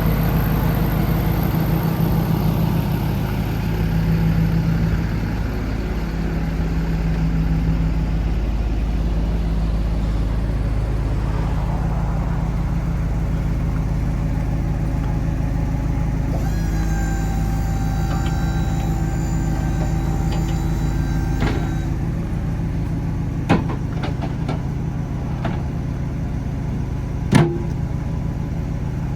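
A PACCAR PX-7 inline-six diesel idling steadily. About halfway through, a steady high tone sounds for roughly five seconds, and a few sharp clicks follow near the end.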